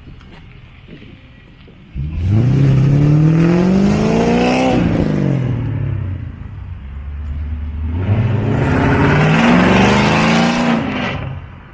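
Car engine accelerating hard while pulling away, revving up twice: a sudden loud start with pitch climbing for about three seconds, a drop as it eases off, then a second climb before fading near the end.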